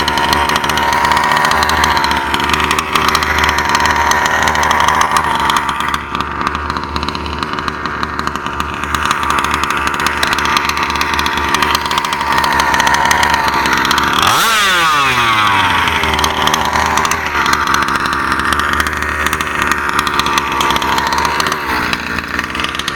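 Small two-stroke gas engine of an HPI Baja 5B RC car running steadily, with a quick rev up and back down about fourteen seconds in and smaller blips later. The car is not driving because its pinion gear has come off.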